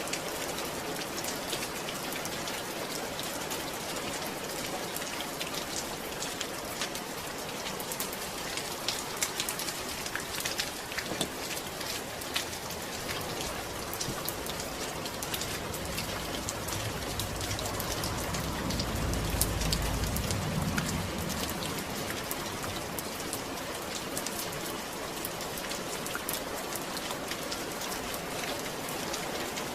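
Steady rain falling, an even hiss dotted with the sharp ticks of individual drops hitting a surface. A low rumble swells and fades about two-thirds of the way through.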